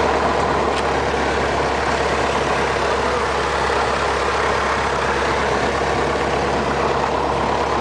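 Light aircraft's piston engine running steadily at low power, heard from inside the cockpit as an even drone.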